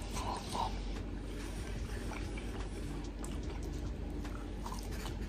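A person biting into and chewing a crispy fried dry-rub chicken wing, with scattered small mouth clicks.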